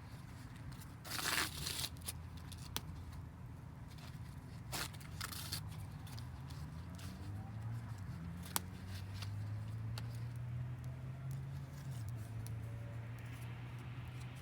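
A short tearing sound about a second in, then a couple of shorter rustling tears and scattered sharp cracks, as material is torn by hand while a wood fire is being lit. Under it runs a low hum that rises in pitch about halfway through.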